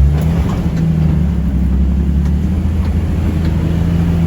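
Off-road vehicle's engine running steadily, heard from inside the cab, its pitch rising and falling a little, with a few faint knocks.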